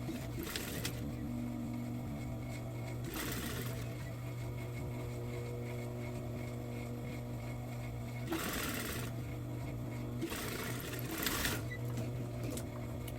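Sewing machine stitching in three short runs over the steady hum of its running motor.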